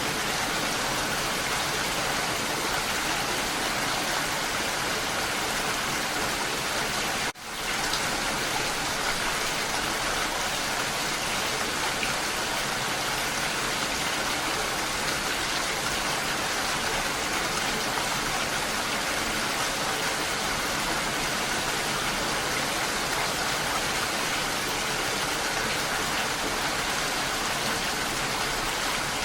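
Steady rain falling, an even hiss of drops. About seven seconds in the sound drops away for a split second and comes straight back.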